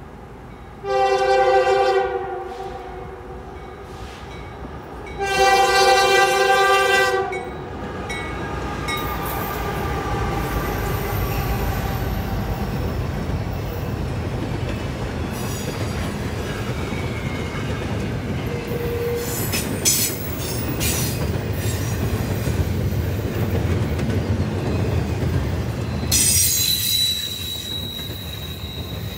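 Norfolk Southern freight locomotive's air horn sounds two chords, a short blast about a second in and a longer one about five seconds in. Then a double-stack container train rumbles past, with wheels clicking over rail joints and a high steady wheel squeal near the end.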